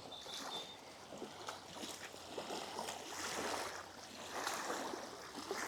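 Wind and choppy water lapping, a steady rushing that swells and eases in gusts, with wind buffeting the microphone.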